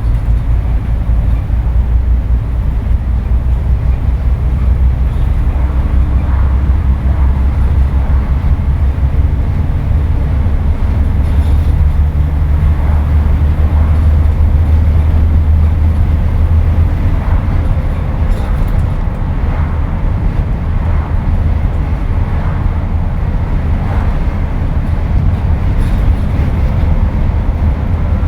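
Scania N230UD double-decker bus's five-cylinder diesel engine pulling hard, heard from on board as a loud, steady low drone with light rattles. The drone swells for a few seconds near the middle.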